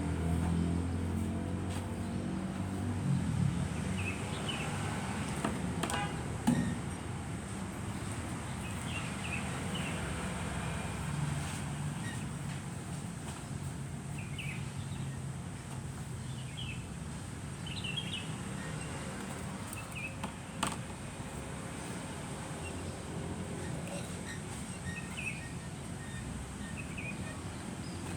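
Truck engine running with a low, steady drone, with birds chirping briefly now and then. Sharp knocks cut in twice, about six seconds in and again about twenty seconds in.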